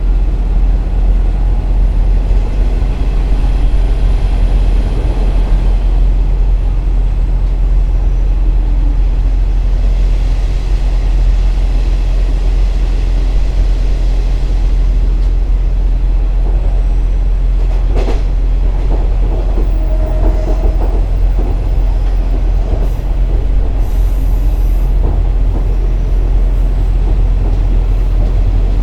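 KiHa 47 diesel railcar heard from inside while running: a steady deep drone of the diesel engine and wheels on the rails. One sharp click comes about 18 seconds in, then a brief squeal about two seconds later.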